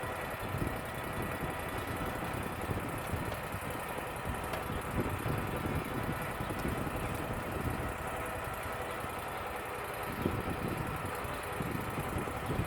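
Wood-Mizer LT35 portable band sawmill's engine running steadily, with wind gusting on the microphone.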